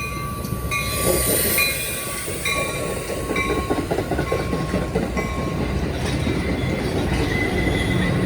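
A train passing on the mainline: a steady low rumble with wheels clacking over the rails, the clacking starting about a second in.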